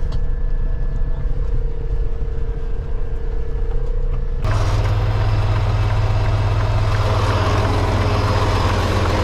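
Semi-truck's diesel engine running; about halfway through the engine note jumps suddenly to a louder, heavier hum.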